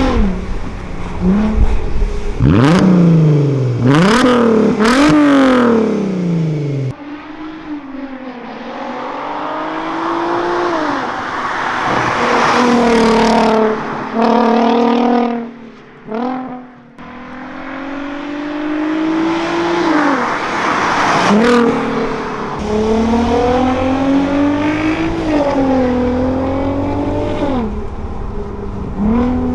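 Tuned Audi A3 3.2 VR6 engine and exhaust under hard acceleration. The revs climb and drop sharply at quick gear changes, build through one long pull in a single gear, fall away briefly at a lift-off just past halfway, then rise and fall again.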